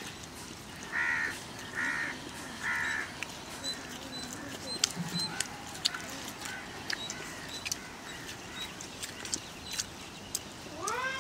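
A bird calling three times in quick succession, starting about a second in, over scattered light clicks.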